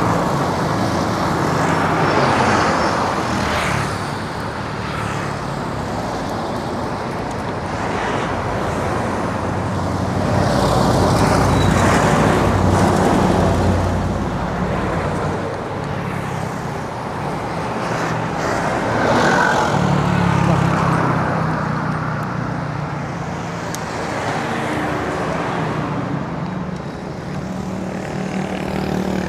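Road traffic heard from a bicycle: a steady rush of motor vehicle engines and tyres, swelling as vehicles pass close by near the start, about ten seconds in and about twenty seconds in.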